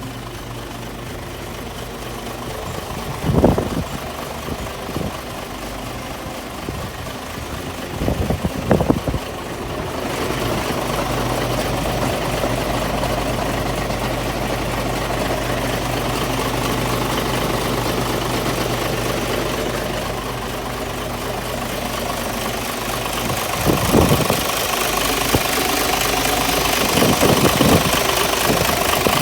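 Isuzu Giga heavy truck's diesel engine idling with a steady clatter. It gets louder about a third of the way in, and a few short thumps sound over it.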